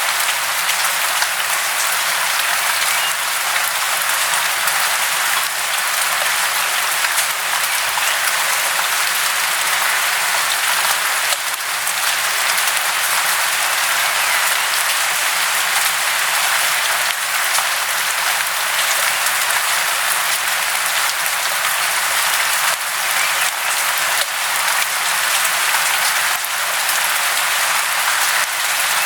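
Steady, even hiss of falling water, with no separate splashes or drops standing out.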